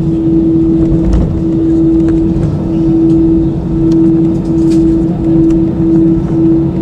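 Airbus A320-214's CFM56 jet engines running steadily, heard from inside the cabin: a loud, even hum with one steady tone that begins to throb in a slow beat in the second half, over a low rumble, with scattered light knocks and rattles.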